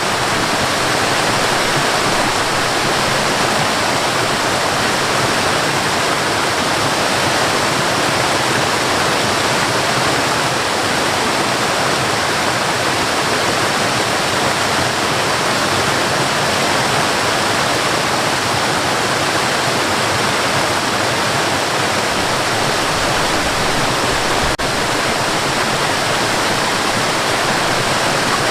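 Waterfall and river water rushing steadily, a loud even roar of falling and flowing water.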